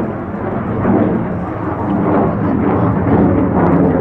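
Rumble of a CF-18 Hornet's twin General Electric F404 afterburning turbofans as the jet flies its display. A deep, steady jet noise that swells and eases slightly over the few seconds.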